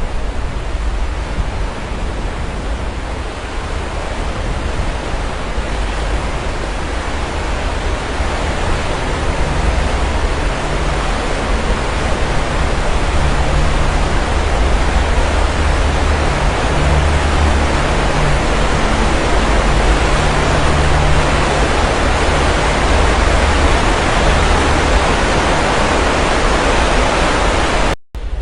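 Sea waves surging and washing in as a continuous rushing noise that swells over the first half and stays loud. It cuts out for an instant near the end.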